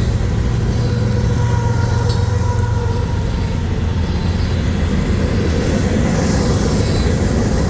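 Freight train passing close by: a steady rumble of wheels and cars on the rails, with a strong low hum that is heaviest over the first five seconds, then eases.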